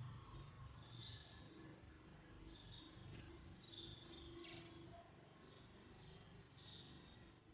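Sparrows chirping faintly in short, high, repeated chirps, over a low steady background rumble.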